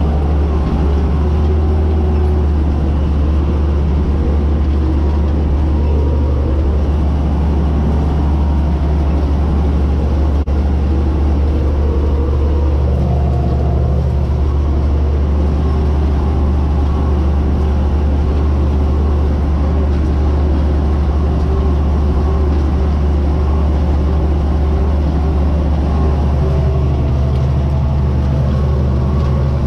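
White 2-150 tractor's V8 diesel engine running steadily under load while pulling a disc through the field.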